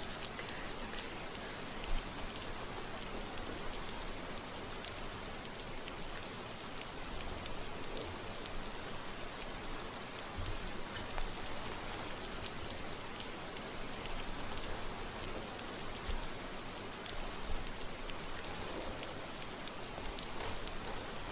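Steady rain falling, an even hiss of drops, with a few brief soft low thumps.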